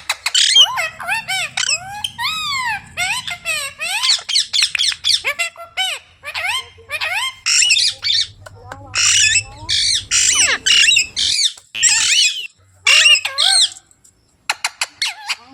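Ringneck parrots calling in rapid strings of short calls that rise and fall in pitch, several overlapping at times, with a brief pause near the end.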